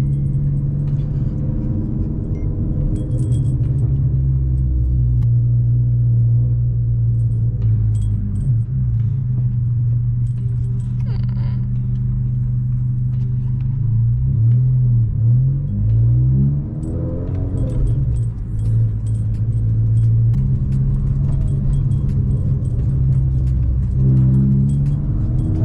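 VW Golf Mk5 1.4 FSI four-cylinder engine running steadily under way at low revs. About 14 seconds in, the revs rise and drop several times in quick succession, as in gear changes, then settle back to a steady note.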